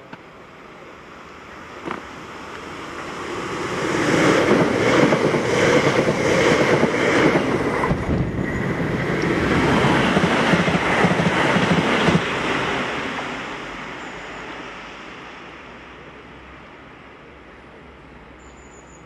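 Multiple-unit passenger train passing close by: wheel and rail noise swells, holds for several seconds with a run of regular beats about two a second, then fades away.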